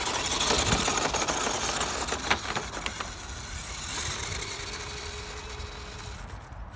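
Electric off-road RC car driving over rough ground: a dense rush of motor, gear and tyre noise that starts suddenly, with a faint steady whine in the second half.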